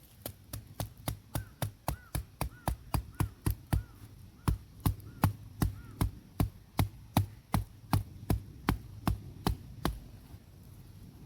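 A knife chopping on a cutting board in a quick, even rhythm of about three to four strokes a second, with a faint ring after some strokes. The chopping stops about ten seconds in.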